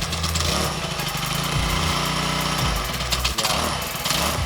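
Gas string trimmer engine running and revving up and down.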